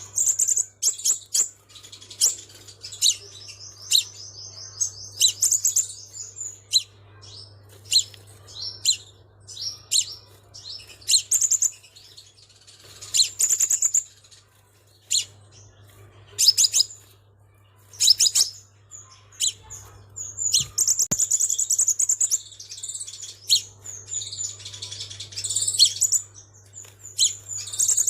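Sunbird calling and singing: a run of sharp, high-pitched chirps and quick trilling twitters, coming in bursts with short pauses, with denser twittering stretches near the middle and toward the end.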